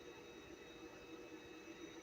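Near silence: a faint, steady hum of background noise.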